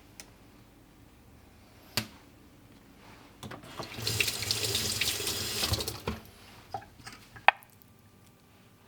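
A kitchen tap runs for about two seconds, with a sharp click before it and a few knocks after it stops, the loudest a little after the water cuts off.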